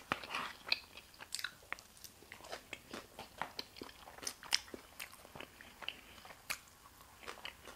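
Close-miked chewing of a mouthful of crisp salad, a steady scatter of small sharp crunches and wet mouth clicks.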